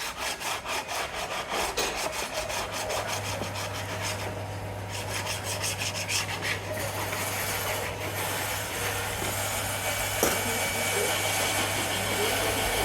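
A hand tool worked on wood in quick, even back-and-forth strokes, several a second, with a steady low hum joining in about two and a half seconds in.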